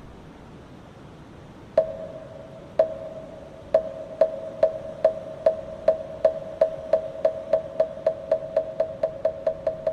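Moktak, the Buddhist wooden temple block, being struck. Three slow strokes about a second apart, then the strokes come steadily faster into a quick roll. Each stroke has a short ringing tone.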